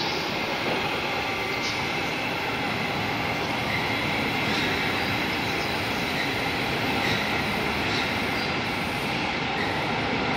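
A train rolling past: a steady running noise of steel wheels on the rails, with a few faint clicks.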